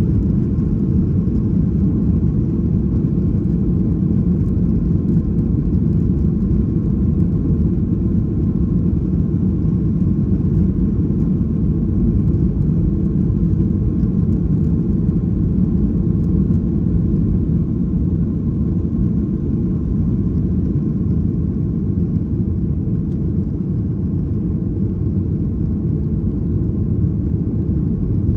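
Boeing 737-800's CFM56 jet engines running, heard from inside the passenger cabin as a loud, steady low rumble that does not change.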